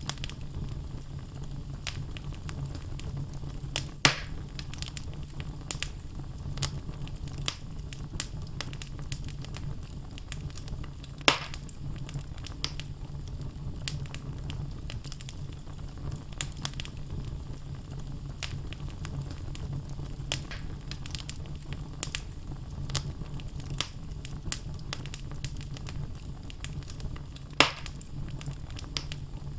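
Wood logs burning in a fireplace: a steady low rumble of the flames under constant crackling, with three loud sharp pops at about 4, 11 and 27 seconds in.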